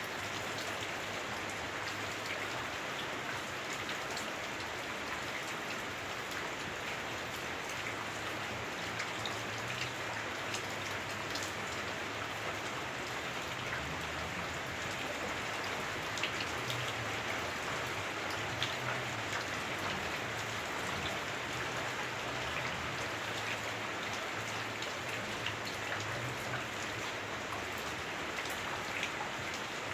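Heavy rain on a house roof, heard from inside: a steady, dense patter with scattered sharper drop ticks.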